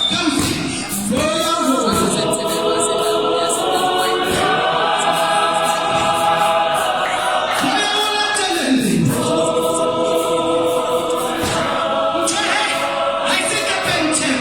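Gospel choir singing in harmony: several voices hold long chords together, with short breaks between phrases about four, nine and twelve seconds in.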